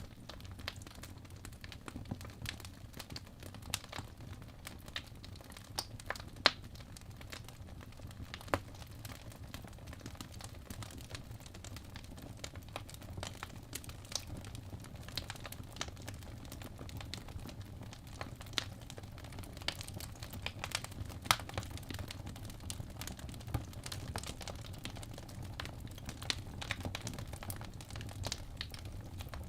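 Wood fire in a fireplace crackling: logs burning with irregular sharp pops and snaps over a low steady rumble of the flames, a few louder pops standing out.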